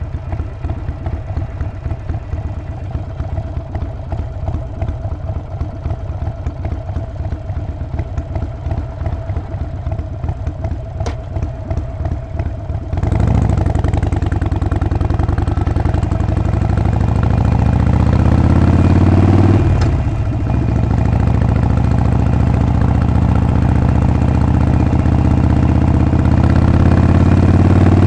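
Harley-Davidson Sportster 48's air-cooled V-twin idling with a lumpy, pulsing beat. About halfway through it pulls away and rises in pitch under acceleration, breaks off briefly for a gear change, then climbs again.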